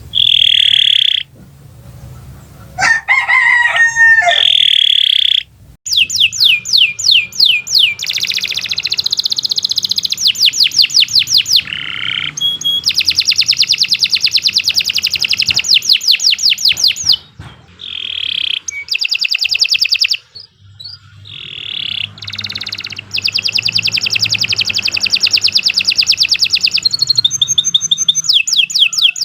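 Domestic canary singing long, fast trills: runs of rapidly repeated high notes lasting several seconds each, broken by short pauses. A lower, wavering call sounds about three seconds in.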